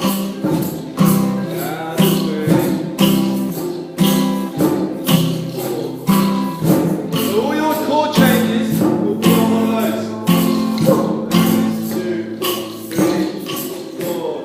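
A group of ukuleles strumming chords together in a steady rhythm, about two strokes a second, with hand percussion shaken in time.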